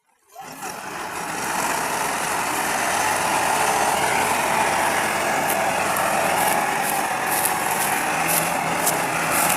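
Tractor engine running steadily, fading in over the first two seconds and then holding a constant level.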